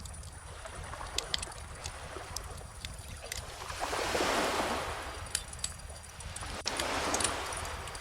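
Calm ocean waves washing in over a low steady rumble of surf, swelling twice, once about halfway through and again near the end, while a wood fire crackles with scattered sharp pops.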